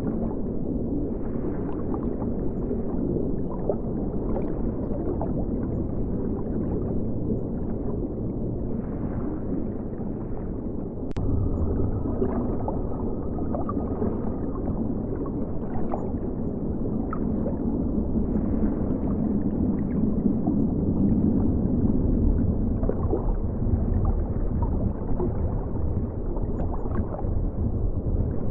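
River water flowing past a submerged microphone: a steady, muffled low rumble and gurgle. A single sharp click comes about eleven seconds in, after which the rumble is a little louder.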